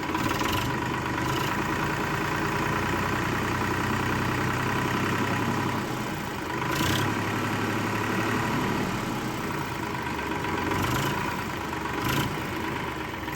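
A small motor, likely the DIY mini tractor's, running steadily with a constant hum and a thin steady whine, broken by a few brief clicks.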